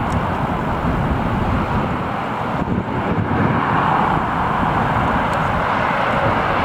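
Jet airliner's engines running, a steady noise that swells slightly about four seconds in.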